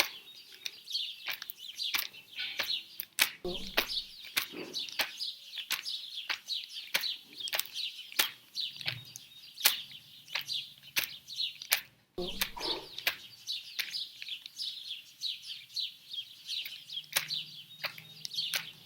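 Many small birds chirping continuously in high, quick notes, with frequent sharp clicks mixed in. The sound cuts out for a moment about twelve seconds in, then the chirping resumes.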